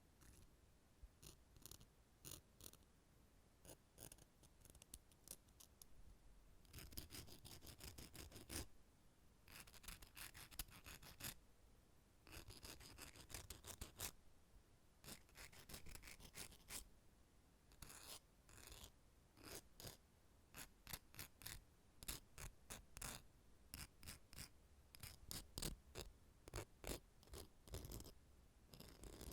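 Metal nail clippers worked close to the microphone: a steady run of sharp clicks and snips, some in dense clusters lasting a second or two, with quieter gaps between.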